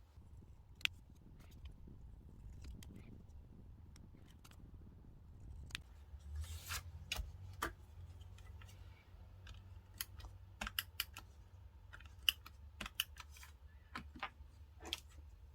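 Scattered light clicks and taps of diary-decorating stationery being handled on a desk, coming more often from about halfway through, over a faint steady low hum.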